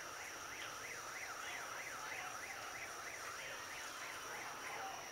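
An electronic alarm siren warbling up and down quickly, about three times a second, fading out near the end.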